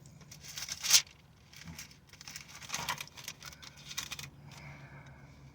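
Bible pages rustling as they are leafed through and flattened, in several short bursts, the loudest about a second in.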